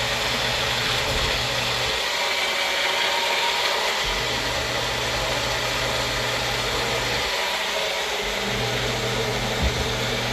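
Magic Bullet blender running steadily, blending a batch of hummus, with a low motor hum that drops out briefly twice as the thick mixture shifts.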